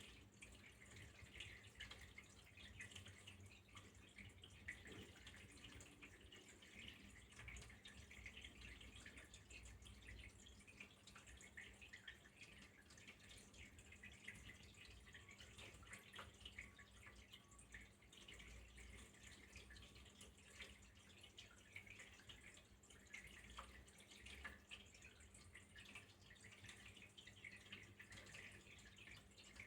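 Faint flowing water trickling and dripping, a steady patter of small drops and splashes.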